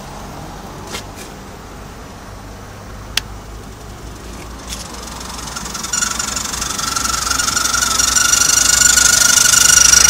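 Mazda Premacy engine idling, with a few sharp clicks. About six seconds in, a high steady whine comes in and grows steadily louder.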